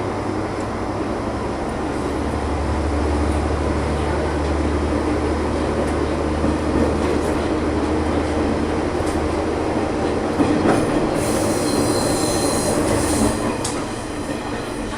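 Diesel railcar running along the track, its engine drone growing stronger a couple of seconds in, with wheels clicking over rail joints. A high squeal from the wheels comes in for a couple of seconds near the end.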